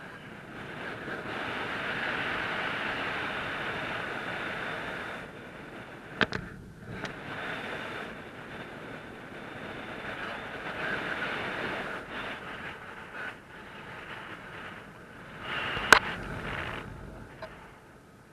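Steady rushing wind noise that swells and eases, with two sharp clicks: one about six seconds in and a louder one near the end.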